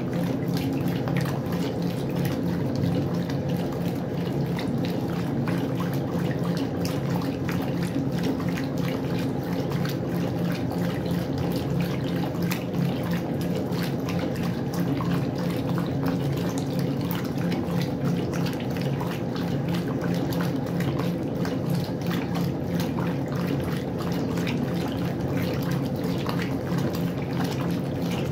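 Westinghouse washing machine running with water in the drum: a steady motor hum under continuous splashing and trickling.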